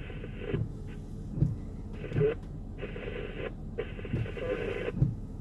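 Radio audio, hiss and sound squeezed into a narrow band, switching on and off in blocks of about a second, with a few dull thumps.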